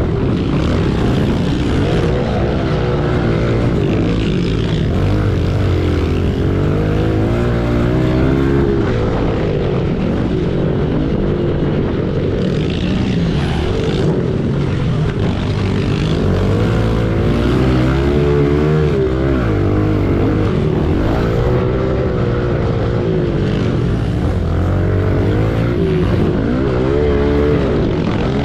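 Single-cylinder pit bike engine under racing load, its revs climbing and dropping again and again over a steady low drone.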